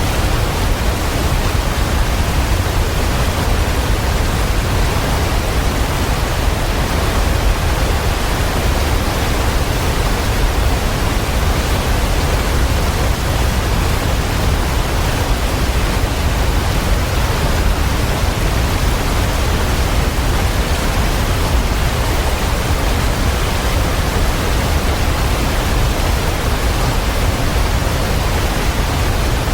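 Waterfall: a steady, unbroken rush of falling water, heavy in the low rumble.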